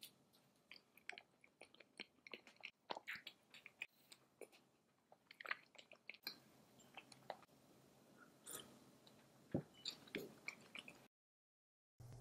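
Faint chewing and biting of a soft sandwich of white bread, Greek yogurt and fresh fig: scattered small, wet mouth clicks and squishes.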